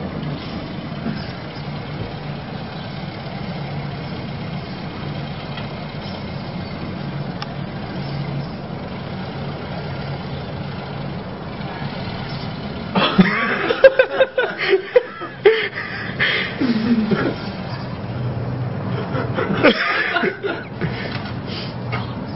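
A car engine running steadily at low revs as the car is manoeuvred back and forth into a parking space. About 13 seconds in, loud bursts of people laughing break out for a few seconds, and they come again briefly near the end.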